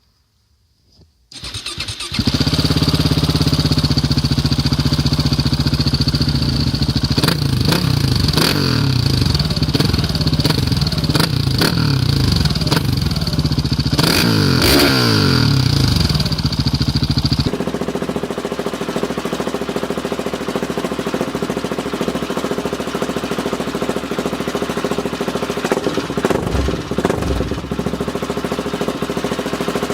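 Husqvarna 701 Supermoto's single-cylinder engine starting about a second in, then idling with several quick throttle blips. Near the end of the blips it drops to a quieter, steady idle.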